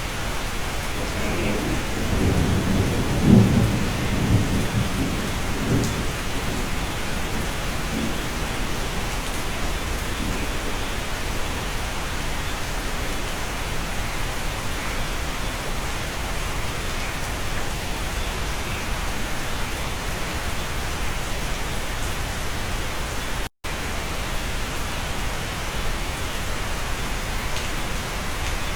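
Steady rain heard from inside a cabin, with a low roll of thunder rumbling about two seconds in and dying away within a few seconds. The sound drops out for an instant near the end.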